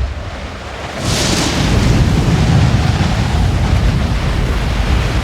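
Storm sound effect: wind and heavy sea surging under a deep rumble, swelling louder about a second in.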